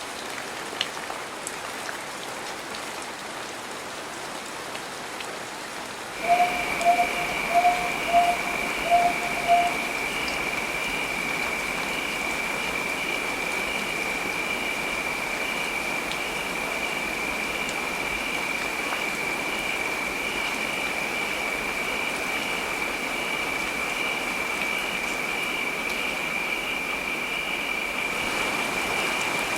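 Steady heavy rain. About six seconds in, the rain sound shifts and a steady high-pitched tone joins it and keeps going, while six short, louder notes sound in quick succession, about two a second.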